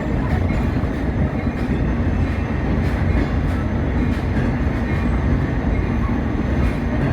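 Passenger train running on the rails, heard from an open-air coach: a steady rumble of wheels on the track with faint scattered clicks.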